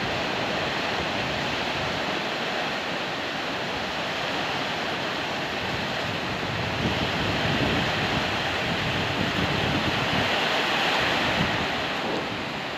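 Gusting wind with steady rain hiss, the wind buffeting the microphone with low rumbles; it grows a little louder about halfway through.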